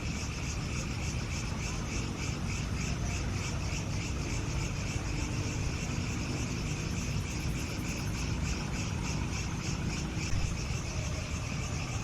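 Crickets or similar insects chirping in a fast, even pulse, several chirps a second, over a steady low rumble.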